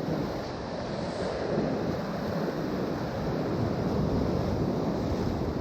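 Steady sea surf with wind buffeting the microphone.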